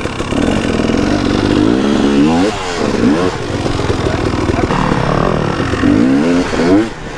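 250cc two-stroke dirt bike engine being ridden on a trail, its revs rising and falling over and over as the throttle is opened and closed.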